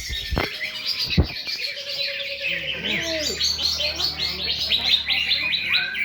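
Several cucak ijo (green leafbirds) singing at once, a dense unbroken stream of rapid high chirps and trills. Two sharp knocks come in the first second or so, and a few lower sliding whistles come around the middle.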